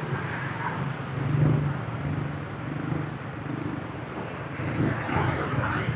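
Motorbike engine running steadily as it rides through city traffic, with the noise of surrounding traffic.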